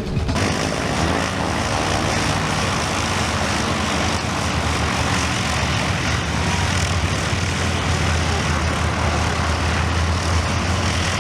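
Propeller-driven aerobatic display aircraft in flight, a steady engine drone with a low hum and a wide rushing noise.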